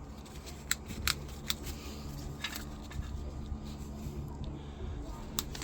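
A few light, irregular metal clicks and clinks from hand tools working the brake servo vacuum fitting loose on the engine's inlet manifold, over a low steady hum.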